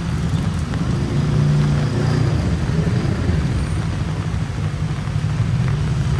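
Road traffic on a rain-wet street: a steady low rumble of vehicles, with one engine's hum coming up strongly from about a second in, over a constant hiss.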